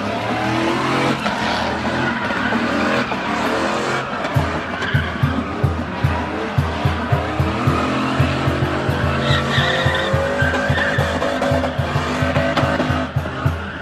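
A truck engine revving hard with tires squealing in a burnout, with a fast, even thumping from about four seconds in.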